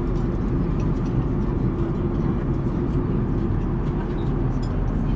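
Steady low rumble of a vehicle interior, with a faint steady hum and a few light ticks over it.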